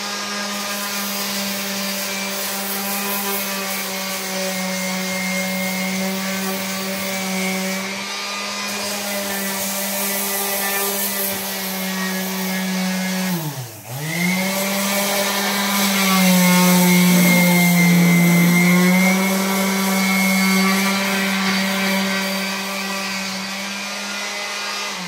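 Electric power sander running steadily with a high motor whine. About 14 seconds in its speed dips sharply and recovers, and a little later the pitch sags and grows louder for a few seconds as it is pressed into the work.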